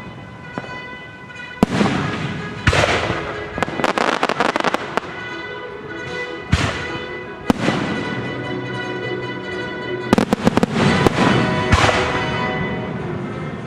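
Fireworks: single sharp bangs and runs of rapid crackling, with two dense crackling volleys around the middle and near the end, over steady orchestral music.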